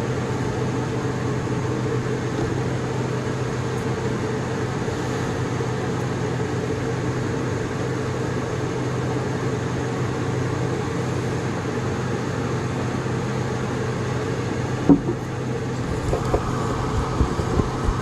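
Steady electrical hum of a running household appliance. A sharp click comes about fifteen seconds in, and a few small knocks follow near the end.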